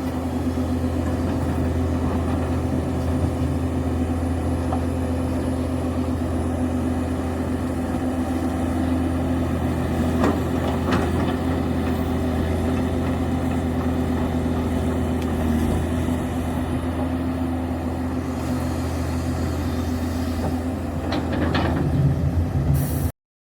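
Link-Belt excavator's diesel engine running steadily, with a few short metallic knocks from the machine. The sound cuts off suddenly near the end.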